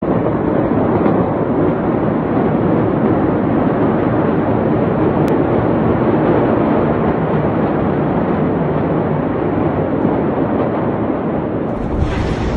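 Loud, steady rumbling noise with no distinct events, changing abruptly to a brighter noise near the end.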